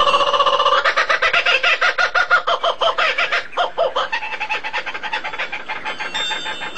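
Bird calls: a fast, even run of pitched clucking notes, fading away over the second half.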